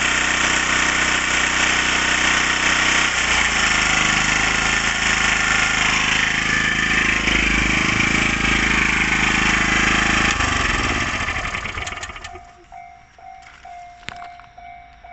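Nakatomi EG-1000 portable engine generator running steadily, then shut off about ten seconds in, its engine dying away over a couple of seconds.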